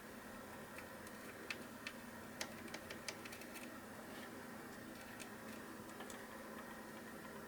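Faint, scattered light clicks and taps, several in the first three seconds and one more about six seconds in, over a steady low electrical hum.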